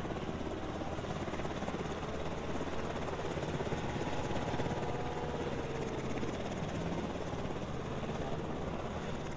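Steady drone of aircraft running on an aircraft carrier's flight deck.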